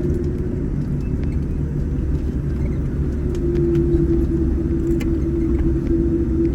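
Steady low rumble of a Boeing 787-10 airliner cabin while taxiing after landing, with a steady hum that grows louder about three seconds in.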